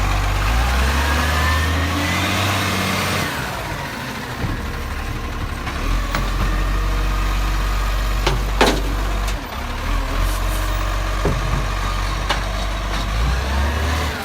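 Garbage truck diesel engine running, its pitch rising with a climbing whine over the first few seconds before settling back to a steady idle. A few sharp metallic knocks stand out, the loudest about eight and a half seconds in.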